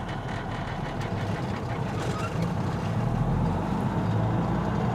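Semi truck's diesel engine running under load as the truck pulls away in third gear with the clutch let out, growing slowly louder.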